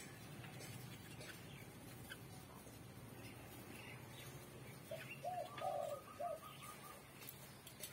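A pigeon cooing: one short run of several rising-and-falling notes about five seconds in, lasting about a second and a half, over a faint low hum.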